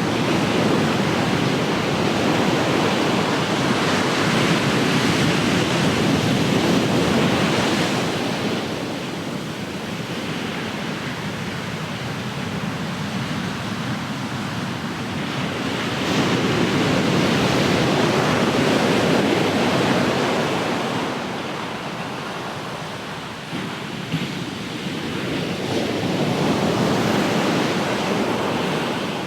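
Ocean surf: waves breaking and washing up the shore in a continuous rush that swells and eases in slow surges, about three big swells over the span.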